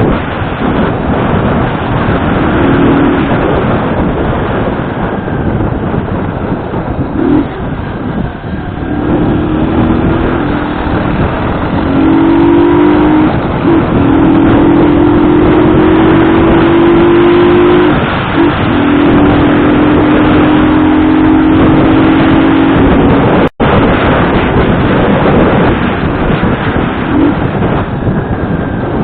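Vehicle engine running on the move under heavy wind noise on the microphone, its note holding steady or rising slowly in long stretches as it pulls through the gears.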